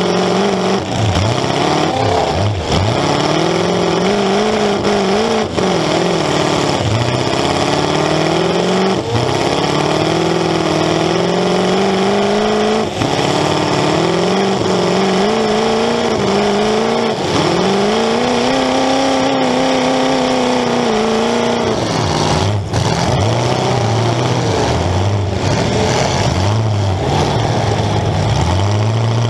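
Demolition derby car's engine, exhausting through open pipes standing up through the hood, revving up and falling back again and again as it drives. A few sharp knocks cut in, most clearly about 22 seconds in.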